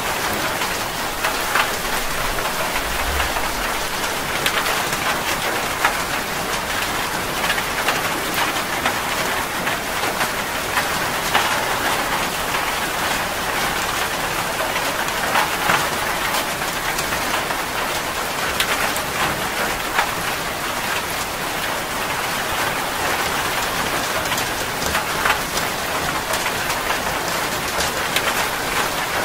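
Steady rain: a dense, even hiss with many separate sharp drop hits scattered through it.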